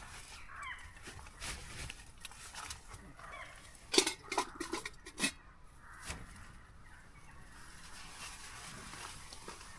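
Faint short calls of an owl at night. A few sharp knocks and clicks, the loudest sounds, come about four to five seconds in.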